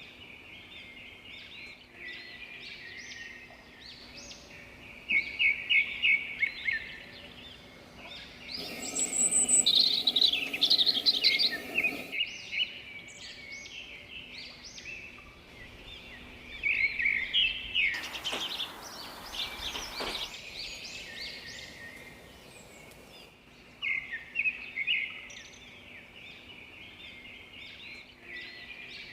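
Several songbirds chirping and singing together, overlapping high chirps and trills with louder bursts of rapid chirping about a fifth, a third and three fifths of the way in. Two brief stretches of steady hiss sit under the birdsong, around the middle and a little after.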